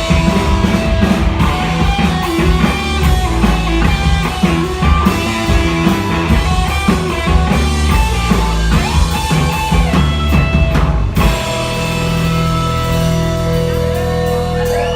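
Rock band playing instrumentally, with drum kit and guitars. About eleven seconds in the drums stop and the guitars hold ringing, sustained chords, as at the close of a song.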